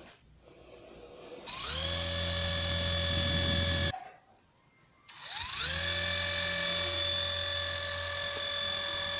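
A small electric motor whirs twice: each time it spins up with a quick rising whine, then holds a steady pitch. The first run stops abruptly after about two seconds, and the second starts a second later.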